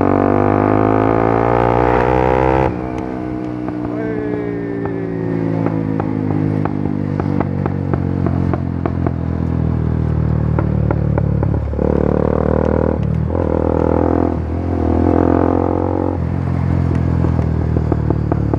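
Bajaj Pulsar NS 200's single-cylinder engine, ECU-remapped and breathing through an aftermarket Akrapovic exhaust, pulling hard with its pitch climbing. The pitch drops off abruptly under three seconds in and falls away as the bike slows. Later it picks up again in a few louder surges.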